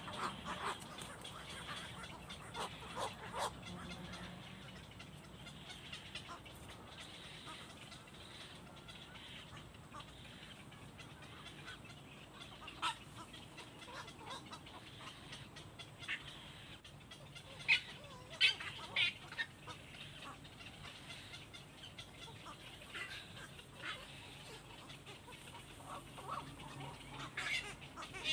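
Scattered short bird calls over a low steady background, with a cluster of louder calls about two-thirds of the way through.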